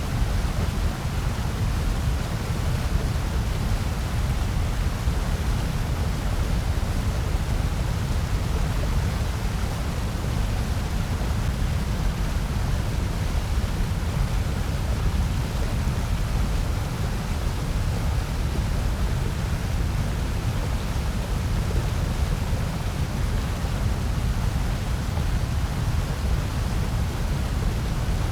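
A steady, unchanging noise track of the kind sold as white noise: a deep rumble underneath, with a softer even hiss above it.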